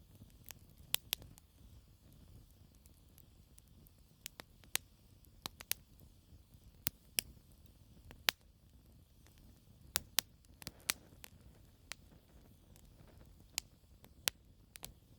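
Campfire of burning logs crackling, with sharp pops at irregular intervals, some in quick pairs, over a low steady rumble of flame.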